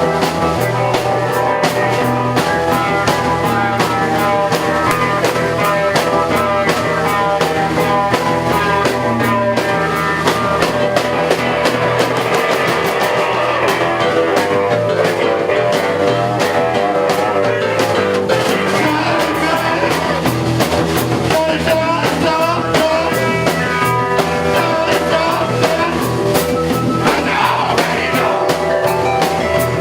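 Live rock band playing: drum kit, electric guitar and bass, loud and continuous.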